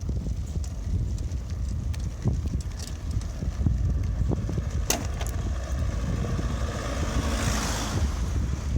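Wind buffeting the microphone of a camera on a moving bicycle: a steady low rumble with scattered clicks and rattles. A rushing hiss swells and fades about seven to eight seconds in.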